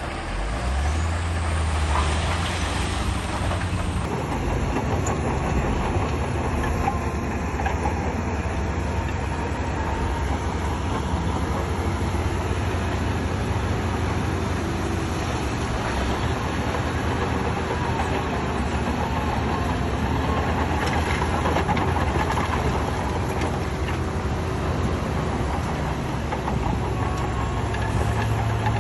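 Heavy diesel earthmoving machinery running steadily: a constant low engine drone under dense mechanical noise.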